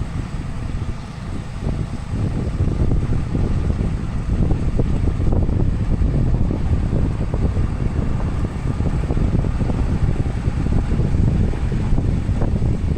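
Snowplow truck running: a steady low rumble with wind buffeting the microphone.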